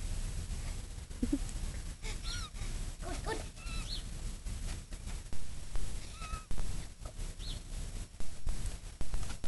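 Birds calling outdoors: short, scattered chirps and honk-like calls over a steady low rumble, with a few sharp thumps in the second half.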